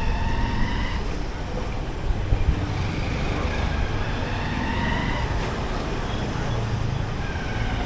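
Motorcycle running on the move, with a steady, fluttering low rumble of engine and wind on the microphone, and road traffic around it.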